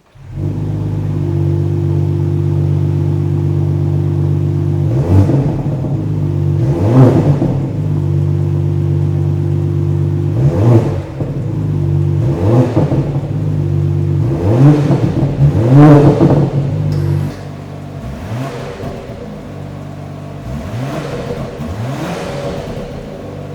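BMW X5 50e's inline-six running through a DCE Parts valved axleback exhaust, idling with a series of quick throttle blips, each rev rising and falling back. About two-thirds of the way through, the idle drops to a quieter level.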